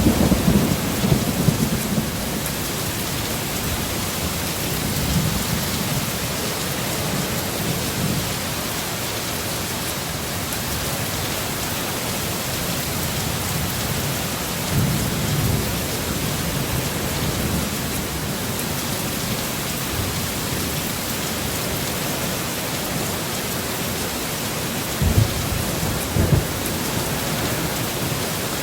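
Heavy, steady rain with rolling thunder: low rumbles swell at the start, again about halfway through, and twice more near the end.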